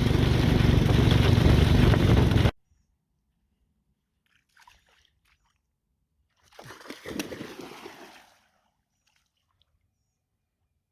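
Small go-kart engine running under load, with a lot of wind noise, cut off abruptly about two and a half seconds in. Then near quiet, until a short splash of water a little past the middle that lasts under two seconds.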